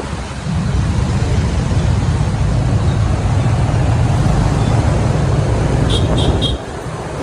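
Riding noise on a motorbike in city traffic: a loud low rumble of engine and wind against the microphone over a wash of street traffic. Near the end come three quick high-pitched beeps, and the rumble then drops off abruptly.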